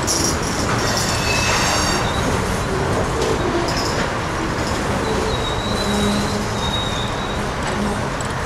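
Freight cars rolling in a rail yard: a steady rumble with high steel wheel squeals that come and go.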